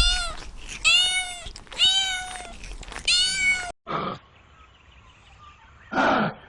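A cat meowing four times in quick succession, each a high meow that rises and falls in pitch. It stops abruptly, and two shorter, lower, rougher calls from another animal follow.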